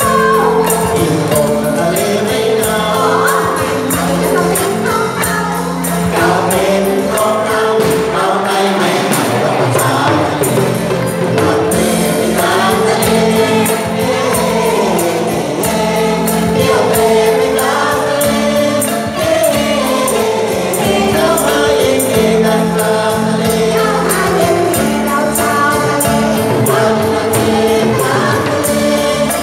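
A chorus singing a Thai ramwong folk-dance song with band accompaniment, over a steady, quick beat of small metallic percussion.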